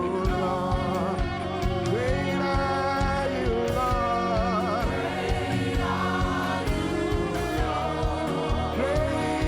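Gospel worship music: sustained, wavering sung voices over instrumental backing with a steady low beat.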